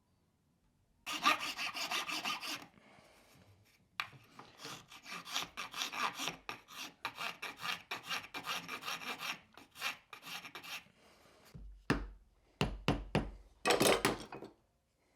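Hand strokes of an abrasive tool scraping across canary wood, shaping a part of a wooden hand plane. A short run comes about a second in, then a long quick run of strokes, then a few separate heavier strokes near the end.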